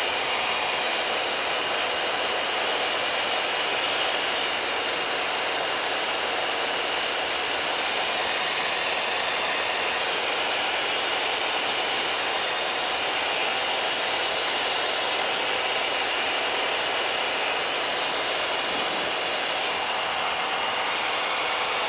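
Steady drone of a Mooney M20K's turbocharged six-cylinder piston engine and propeller in flight, heard inside the cabin, with a constant hiss over it.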